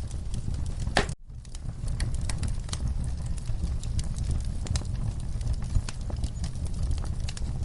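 Wood fire burning in a fireplace: a steady low rumble with irregular crackles and sharp pops. About a second in, the sound cuts out almost completely for a moment and then fades back in.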